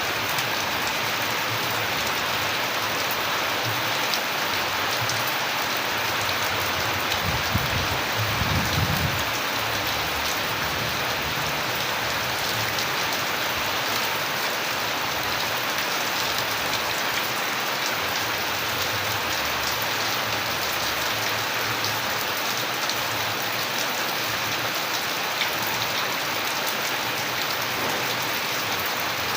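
Steady rain falling, an even wash of many drops without a break, with a brief low rumble about eight seconds in.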